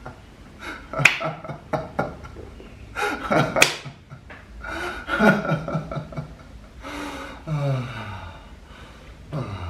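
A person's voice making wordless 'light language' vocal sounds: short laugh-like bursts, breathy gasps and sliding pitch glides, one falling glide near the end.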